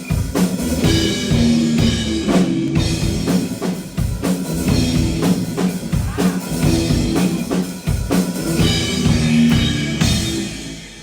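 Live rock band playing, a drum kit beating steadily under sustained bass and instrument notes, the sound dropping away near the end.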